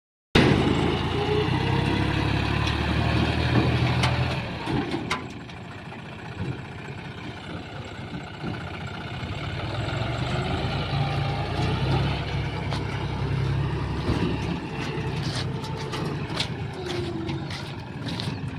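Tractor engine running loud for the first few seconds, dropping back at about four and a half seconds, then rising and easing off again with its pitch moving up and down. A few sharp clicks come near the end.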